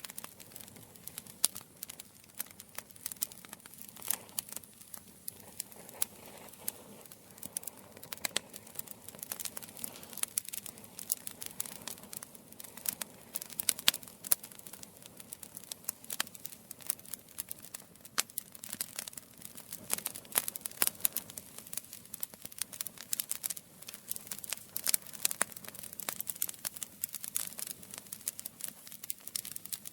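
Campfire crackling: a steady stream of sharp pops and snaps from burning wood over a soft hiss.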